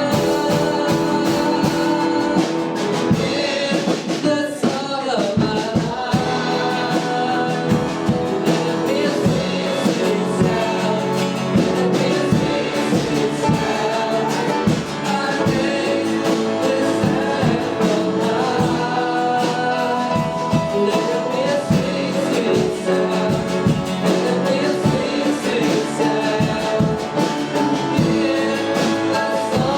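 Worship music: voices singing a melody over a band, with guitar and a steady beat.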